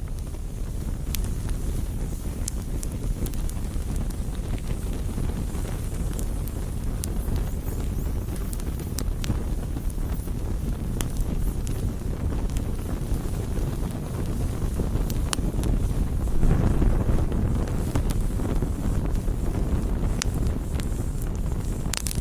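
Campfire burning, with a steady low rumble and scattered sharp crackles and pops throughout. The rumble swells louder for a couple of seconds about two-thirds of the way through.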